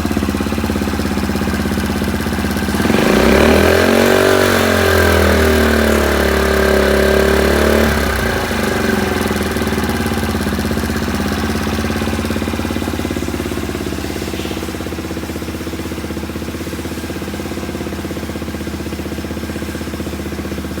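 Suzuki GS50's small four-stroke single-cylinder engine idling, revved up about three seconds in and held for about five seconds, then dropping back to a steady idle.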